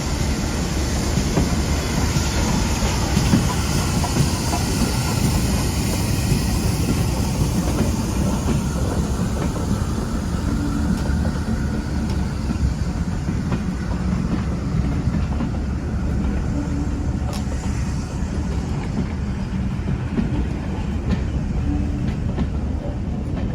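A railway carriage running along the track, heard from on board: a steady rumble of wheels on rail with a few clicks over rail joints.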